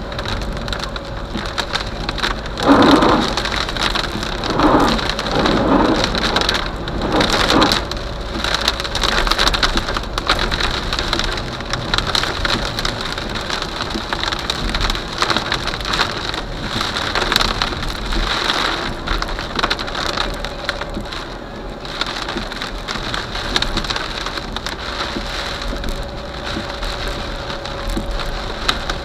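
Heavy rain falling steadily during a thunderstorm, with several louder surges in the first eight seconds or so.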